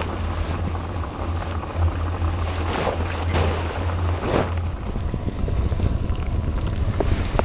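Wind noise on the microphone: a steady low rumble under a rushing hiss, with a couple of sharp clicks near the end.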